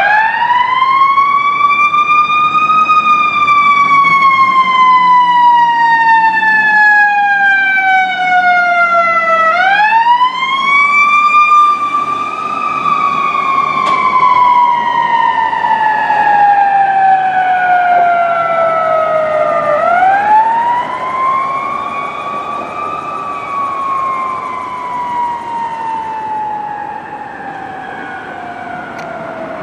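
Fire apparatus siren wailing: three times it rises quickly in pitch, then falls slowly over several seconds, with a low engine rumble beneath. The siren grows fainter over the last third as the apparatus moves away.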